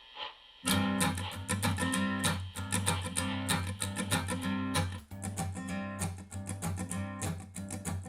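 Recorded music played back through a car's 16 cm two-way component speakers: a steady strummed acoustic guitar over a bass line, coming in fully about a second in.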